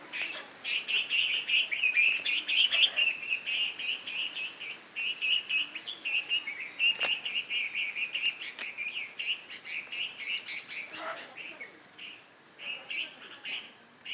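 Birds at a nest chirping in fast, dense runs of high chirps, which thin to separate chirps over the last few seconds.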